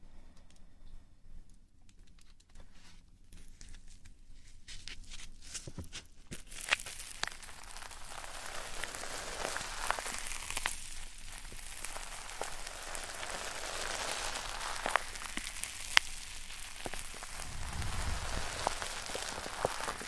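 Close-up ASMR touch sounds on the microphone: a few soft clicks at first, then from about six seconds in a dense, steady crackle and rustle with scattered sharper clicks.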